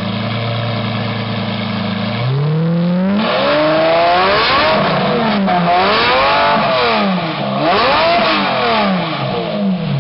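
Supercar engine idling, then revved three times in succession, the pitch climbing and falling with each rev, before dropping back to idle at the end.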